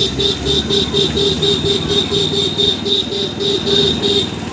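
A loud electronic horn or alarm tone beeping rapidly, about four to five short beeps a second, breaking off near the end.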